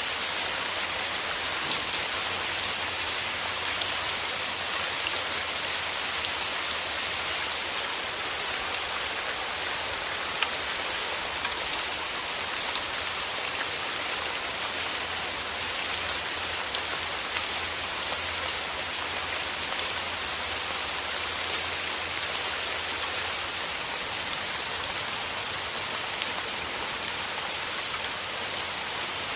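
Steady rain falling, an even hiss with scattered drop ticks on surfaces, and a faint low hum beneath it.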